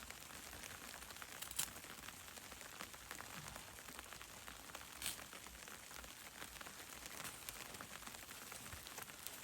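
Wintry precipitation pattering steadily on a surface: a soft, even stream of fine ticks, with two sharper clicks, one about a second and a half in and one about five seconds in.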